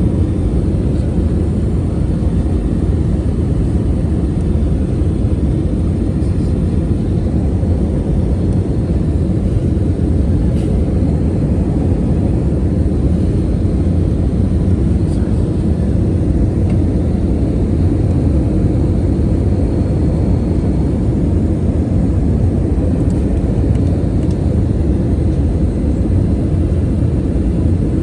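Airliner cabin noise in flight: the steady, unbroken rumble of the jet engines and rushing air.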